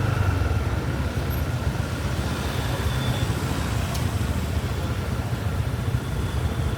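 Motorbike engine running steadily while riding, with road noise, as a continuous low rumble.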